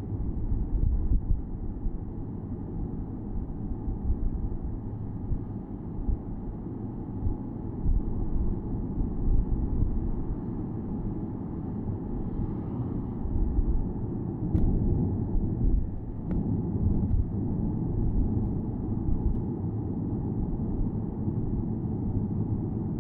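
Porsche Boxster S 987.2 driving with the top down: a steady low rumble of its 3.4-litre flat-six engine, tyres and wind, swelling and easing unevenly.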